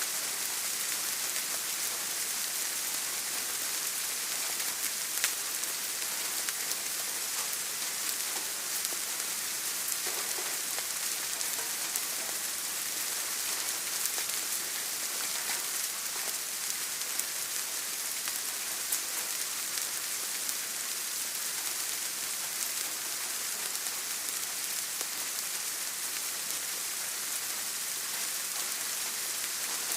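Steady rain falling and pattering on a surface, with scattered individual drop ticks, one a little louder about five seconds in.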